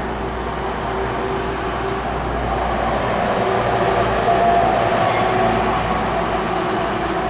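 Expressway traffic: a heavy truck passes with steady engine and tyre noise, building to its loudest about four and a half seconds in and then easing away.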